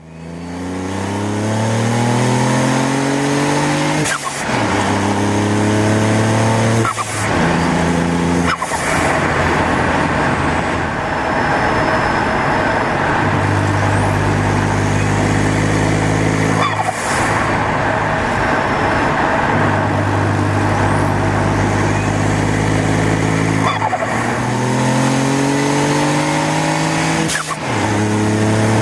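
Ford Fiesta 1.0 EcoBoost three-cylinder turbo engine pulling hard through the gears, its pitch rising with the revs, then holding steady for long stretches. Several times, at each lift-off, the aftermarket Turbosmart Dual Port blow-off valve vents boost with a short sharp whoosh.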